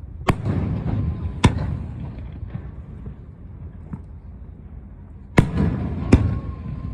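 Aerial fireworks shells bursting: four sharp bangs, two about a second apart near the start and two more near the end, each followed by a rolling rumble.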